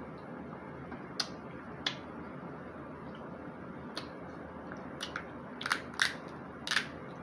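Snow crab shell being cracked and bitten into while eating: about seven short, sharp cracks and crunches, a few spaced out at first and a louder cluster near the end, over a steady background hiss.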